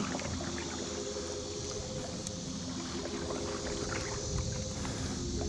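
Kayak paddling through shallow marsh water, with small splashes and drips from the paddle over a steady high hiss and a low steady hum.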